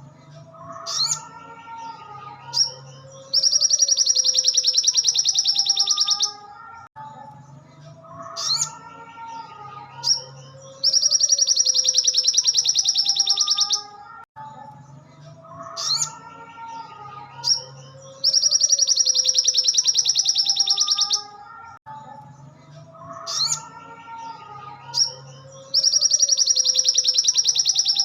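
Recorded song of a sogon (sogok ontong) bird. A loud, very fast, high trill lasting about three seconds comes back about every seven and a half seconds, with short sharp chirps and lower warbling notes between the trills, as in a looped training track.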